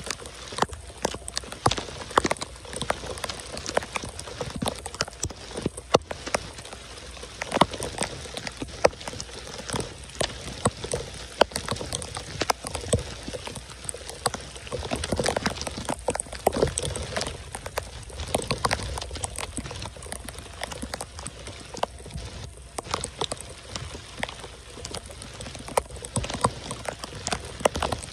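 Heavy rain falling on a flooded paved street: a steady hiss with many sharp drop impacts close by.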